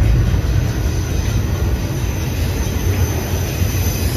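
Cars of a CN intermodal freight train rolling past at speed: a steady, heavy low rumble, with a faint high whine growing in the second half.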